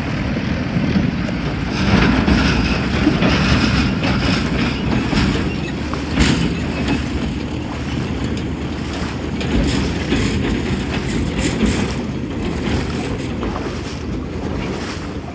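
Water splashing as a person wades on foot through a shallow river, over the steady rush of the flowing river.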